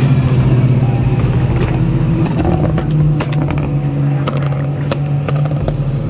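Nissan Skyline GT-R cars running on a race track, their engines heard as they drive past, with background music laid over a steady low drone.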